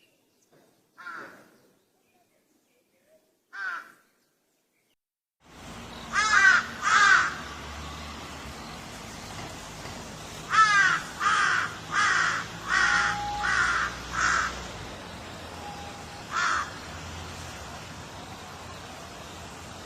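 Crows cawing: two single caws in the first few seconds, then a short silence, then a recording with a steady background hiss in which a crow caws twice, gives a quick run of about seven caws, and caws once more.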